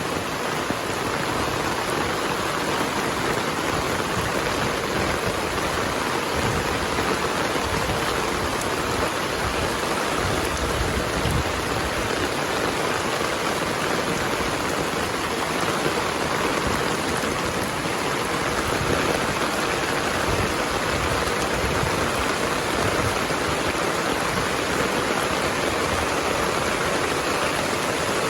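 Heavy rain falling in a steady, dense hiss with no letup.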